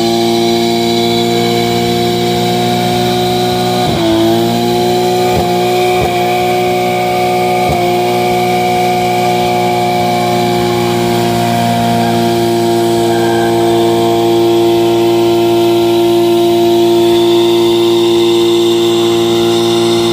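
A car's engine held at steady high revs during a burnout, its rear tyres spinning in place on the pavement. The revs dip briefly a few times about four to eight seconds in, then hold steady again.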